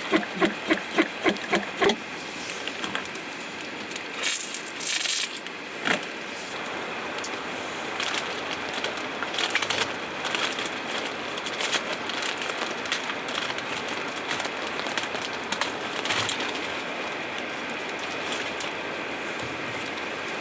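Steady rain with scattered crackling all through. It opens with a quick rhythmic run of about eight strokes in two seconds, and a short hissing burst comes about four to five seconds in.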